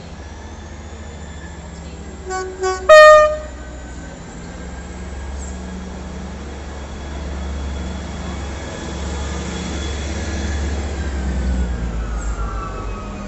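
Train horn sounding two short low notes and then a louder, higher note, about two to three seconds in. Under and after it a train runs with a low rumble and a faint whine, growing louder towards the end as the whine falls in pitch.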